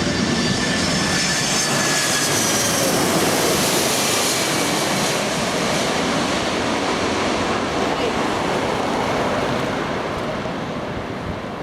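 Boeing 767-300ER's twin turbofan jet engines passing low on landing approach. A steady jet roar carries high whining tones that slide down in pitch during the first few seconds, and the roar eases off near the end.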